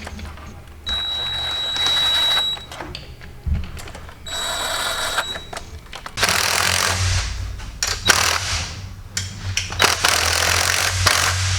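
Cordless impact wrench running intake manifold bolts down in short bursts, with a thin high whine in each burst, then a longer run of several seconds.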